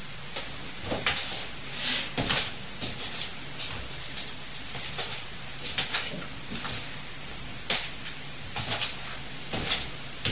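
Irregular light clicks and knocks, a dozen or so spread unevenly, over a steady low hum and hiss of room noise.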